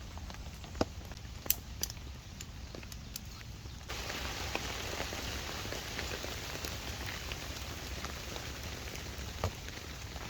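Rain falling: at first a light hiss with scattered sharp drop ticks and taps, then about four seconds in a sudden change to a denser, louder, steady rain hiss.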